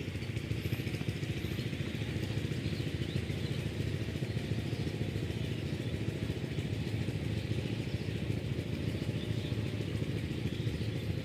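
Power tiller's single-cylinder diesel engine running steadily at a constant speed, an even, rapid putter.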